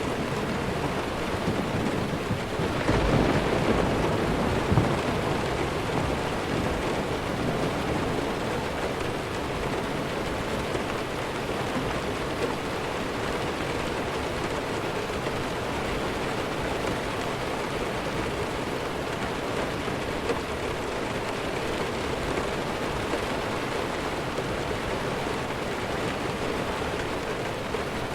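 Steady heavy rain falling, with a low rumble of distant thunder a few seconds in that dies away, leaving the even hiss of the rain.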